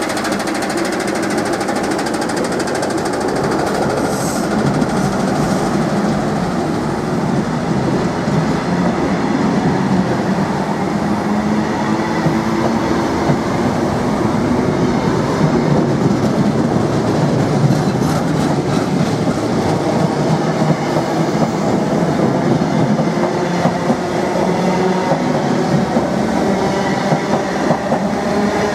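A Class 90 electric locomotive and its Mark 3 coaches rolling past along the platform. Wheels and bogies rumble steadily on the rails, with some wheel-over-rail-joint clatter, and the loudness holds even.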